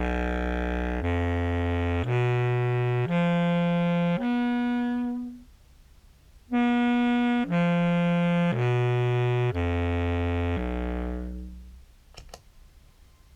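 Contrabass clarinet playing a phrase in its bass range: five sustained notes of about a second each climbing upward, a short pause, then five notes stepping back down to the lowest.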